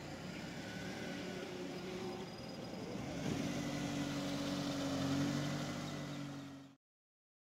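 Car engine running at a steady low speed, its hum growing louder about three seconds in; the sound cuts off suddenly near the end.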